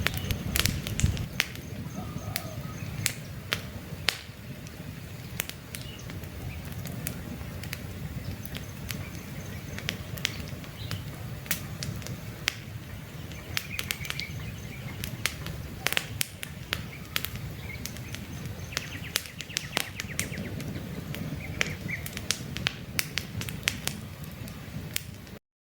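Wood campfire burning, with many sharp crackles and pops over the low rush of the flames. Birds chirp faintly now and then, and the sound drops out for a split second near the end.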